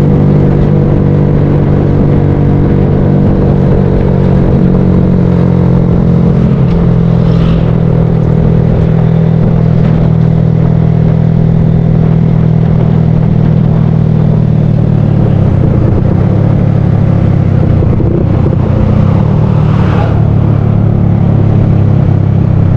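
Motorcycle engine running at a steady speed while riding, its pitch holding nearly level.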